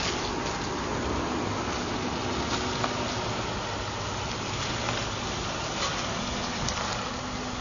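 Steady vehicle noise heard inside a Chrysler/Dodge minivan's cabin, an even hiss with a low rumble, with a few faint clicks.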